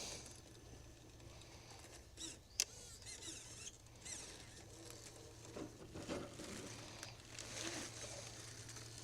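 Faint whine of a mini RC crawler's small electric motor, rising and falling in pitch as it is throttled over terrain, with a sharp click a few seconds in.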